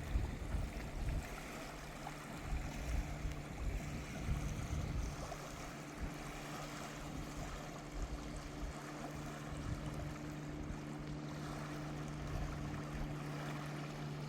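Waves washing on a beach with sea breeze buffeting the microphone in irregular gusts, mostly in the first half, over a steady low hum.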